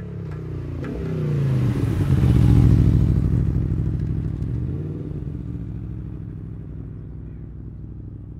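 Aprilia Tuono V4 motorcycle with an Akrapovič half-system exhaust riding past: the V4 engine note grows louder to a peak about two and a half seconds in, then drops in pitch and fades away as the bike moves off.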